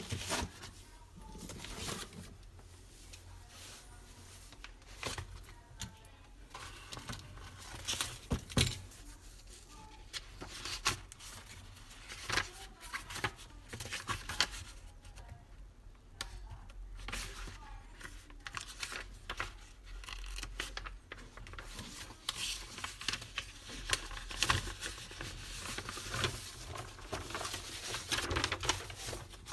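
Irregular clicks, scrapes and rustles of small objects being handled and worked by hand.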